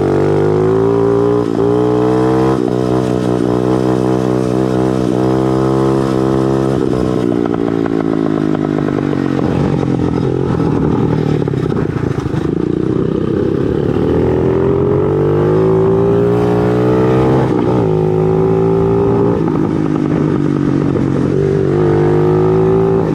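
Motorcycle engine running under way, its pitch climbing and falling with the throttle, with a few quick jumps in pitch as it changes gear.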